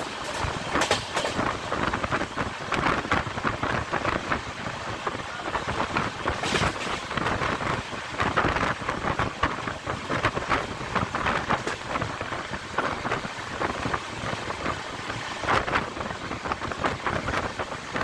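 Running noise of a moving train heard from an open window or door: a steady, dense rattle and clatter of wheels on rails and the carriage shaking, with no break.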